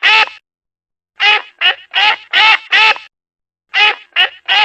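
Duck quacking in quick runs of about five quacks, each run followed by a short pause.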